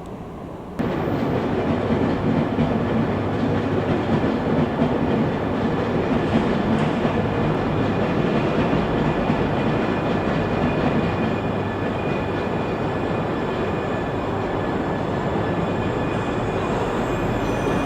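A train running at the platform: a loud, steady rush and rumble of wheels and running gear that starts abruptly about a second in. Faint high steady tones join it near the end.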